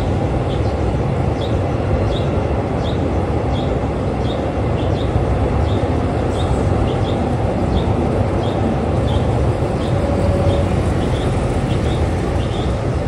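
Passenger train carriage running along the track: a steady rumble of wheels and carriage, with a short high squeak repeating evenly about every 0.7 seconds.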